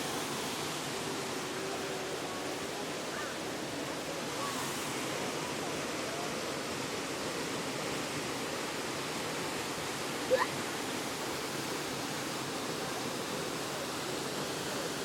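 Steady rushing of a waterfall. About ten seconds in, a brief high-pitched cry stands out above it.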